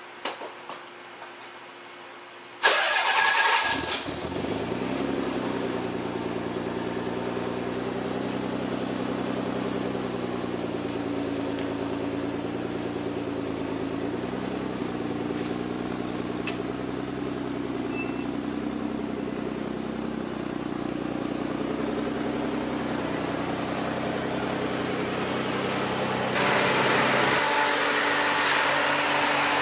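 Nissan 300ZX's twin-turbo VG30DETT V6 cranked on the starter for about a second, then catching and settling into a steady idle through the GReddy SP1 exhaust, test pipes and non-resonated H-pipe; the idle wavers briefly partway through. Near the end a louder, more hissing steady sound takes over.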